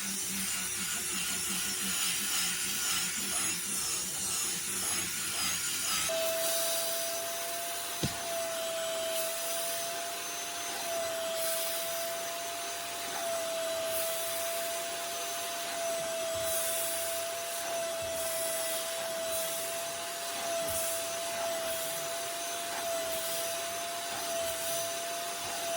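A drill brush scrubbing cloth seat upholstery with a rough, pulsing whirr. About six seconds in, a carpet extractor's vacuum motor takes over with a steady whine that runs on, and a single sharp click comes a couple of seconds after it starts.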